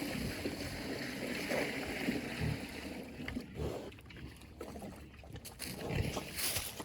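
Pig eating wet deer stew: messy, splashy slurping with scattered low thumps, busiest in the first few seconds.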